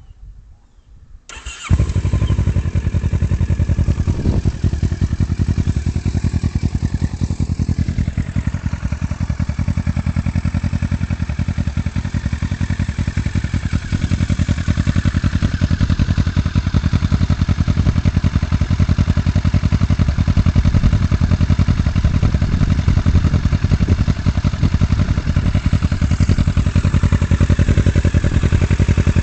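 A 2009 Kawasaki Versys 650's parallel-twin engine starts about a second and a half in, then idles steadily through a Jardine GP-1 aftermarket exhaust run without its quiet tip, very loud.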